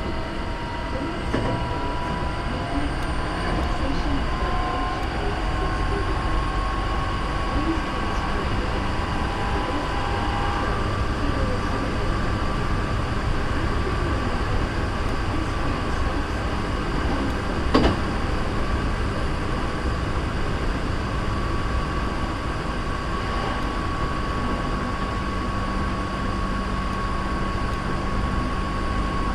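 Hankyu 3300 series electric train running at speed, heard on board: a steady rumble with a motor and gear whine that rises slowly in pitch over the first ten seconds, then holds steady. A single sharp knock about two thirds of the way through.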